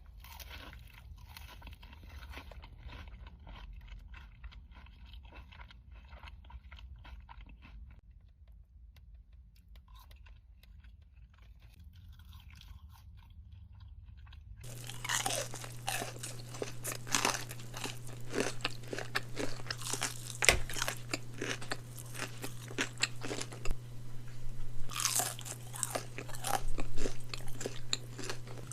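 Close-miked eating of Raising Cane's fried food: quiet chewing with soft crunches, then, from about halfway, louder crisp crunching bites and chewing over a steady low hum.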